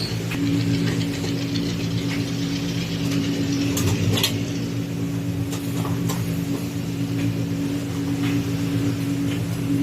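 Washing machine running with a steady motor hum, a higher tone joining about half a second in, and a few light clicks over it.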